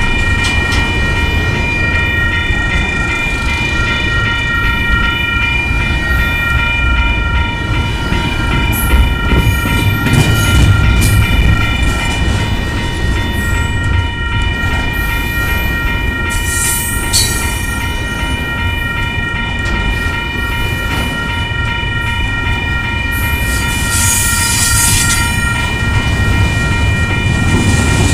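Double-stack container well cars of a Union Pacific intermodal train rolling past: a steady low rumble of wheels on rail, with a continuous high ringing tone over it and a few brief squeaks and rattles, about a third of the way in, past the middle and near the end.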